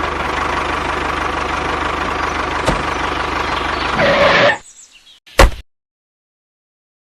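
A small tractor engine running steadily, with a single click a little under 3 seconds in. It grows louder briefly about 4 seconds in, then cuts off suddenly. A short loud thump follows a second later, then silence.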